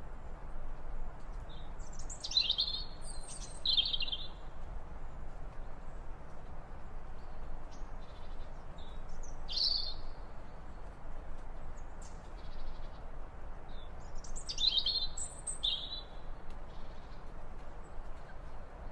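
A bird calling in three short bursts of high chirping notes, each a second or two apart, over a steady background hiss.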